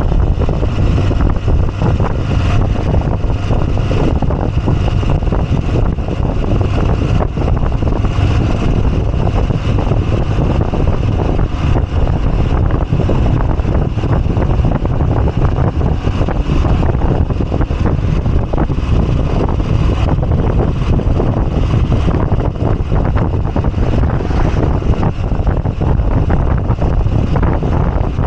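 Moto Guzzi V85TT's air-cooled transverse V-twin running steadily while riding, mixed with wind noise on the microphone.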